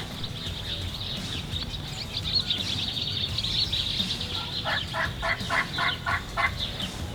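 A wild turkey gobbler gobbling once about two thirds of the way in, a quick rattling run of about eight notes. Small songbirds chirp steadily throughout.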